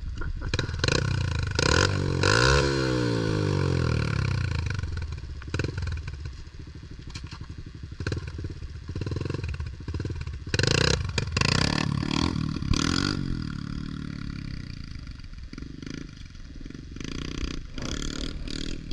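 Pit bike engine being ridden and revved, its pitch rising with the throttle about two seconds in and again around ten to thirteen seconds in, then falling back between pulls.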